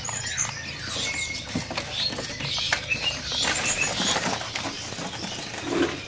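Caged small songbirds hopping and fluttering against cage bars and perches, with scattered short, high chirps and tweets from several birds.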